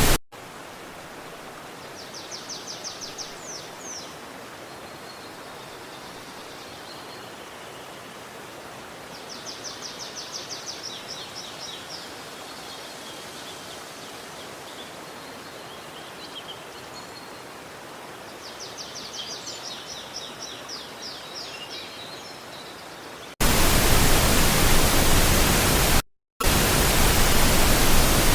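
A small songbird sings a rapid, high trilled phrase three times, about eight seconds apart, over a faint steady hiss. About five seconds before the end, a loud steady rushing noise cuts in abruptly, broken once by a very short dropout.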